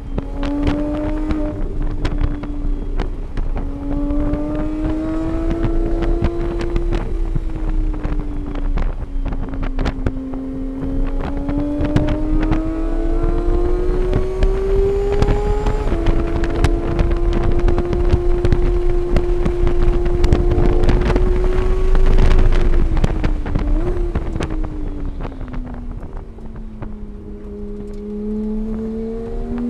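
Engine of a vehicle lapping a racetrack, heard onboard with wind buffeting the microphone. Its pitch climbs under acceleration and falls off repeatedly, with a sudden shift in pitch about halfway through and a long slow-down near the end before it picks up again.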